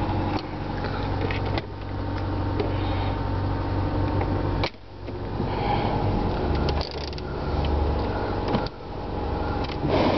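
Subaru Forester engine idling steadily, heard from inside the cabin. Its hum is broken by several sudden dips and a sharp click about halfway through as the dashboard controls are handled.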